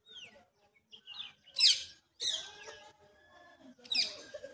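Birds chirping, with three loud, sharp, falling calls about one and a half, two and four seconds in, among fainter scattered chirps.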